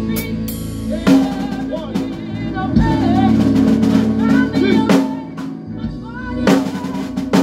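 Live band playing: a drum kit with a few sharp accented hits, over bass guitar and sustained held chords.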